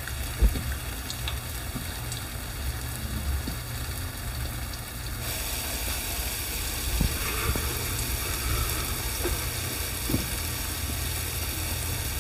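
Urad dal fritters frying in hot oil: a steady sizzle that grows brighter about five seconds in. A few light clicks break in, the loudest about half a second in.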